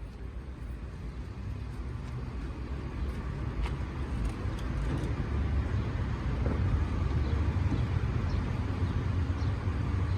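Peugeot coupé-cabriolet's electro-hydraulic folding roof opening: a low steady pump hum that grows louder, with a few light clicks from the roof mechanism.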